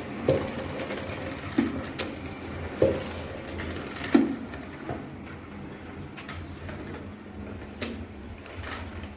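Plastic spin-mop bucket and mop being handled, with a dull knock about every second and a quarter for the first four seconds and light clicks scattered throughout.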